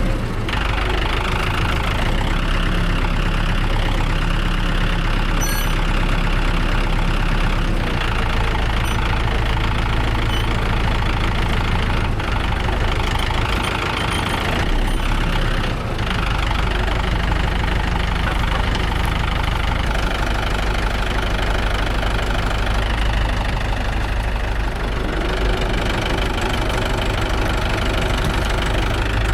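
Tractor engine running steadily, its engine speed shifting a few times.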